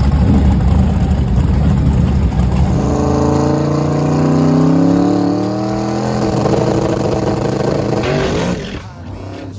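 Drag-racing '55 Chevy's engine rumbling heavily, then accelerating hard with a rising pitch for about six seconds on a pass, and cutting off sharply near the end.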